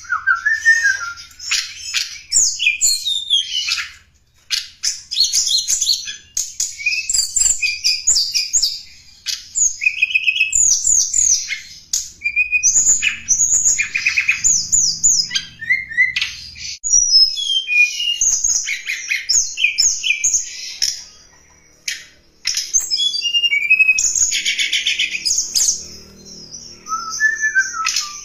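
Tledekan gunung songbird singing: a fast run of high-pitched chirps, trills and quick up-and-down whistled notes. It breaks off briefly about four seconds in and again a little past twenty seconds. This is a lure call used to draw in wild birds of the same kind.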